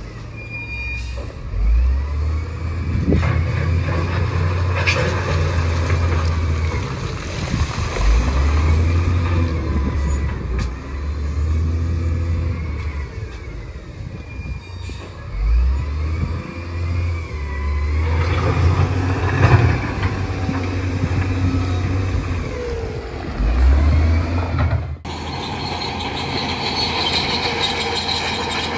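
A bulldozer working, its diesel engine running with a low rumble that rises and falls in steps as it loads up. Repeated high squeals rise and fall over it. The sound changes abruptly about 25 seconds in.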